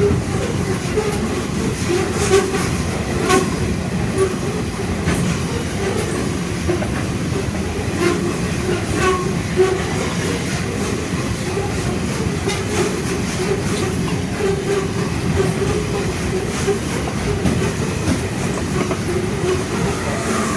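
Grain train wagons rolling past, their steel wheels running on the rails with a steady rumble and irregular clicks of wheels over rail joints.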